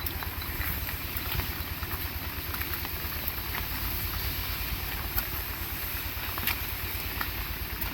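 Heavy rain falling steadily, with many sharp drop ticks close by and a low rumble underneath.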